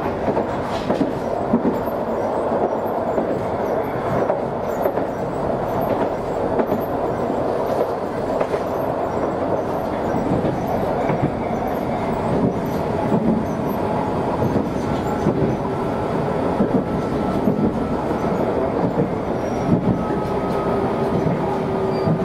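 Chikuho Electric Railroad tram-train running at speed, heard from inside the car: a steady rumble of wheels on the rails, with scattered knocks over rail joints. A faint whine comes in about two-thirds of the way through and drops slightly in pitch near the end.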